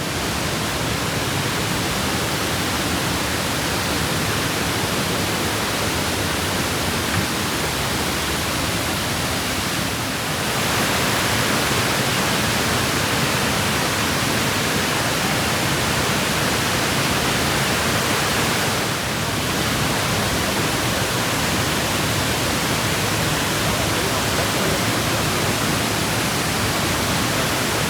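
Steady rushing of a waterfall, a dense even roar of falling water. It gets louder about ten seconds in and eases slightly for a moment near the nineteen-second mark.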